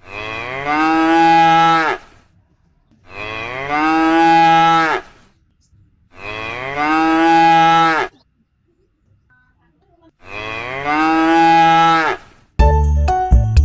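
A cow mooing four times, each moo a long call of about two seconds with gaps between. Jingly music starts near the end.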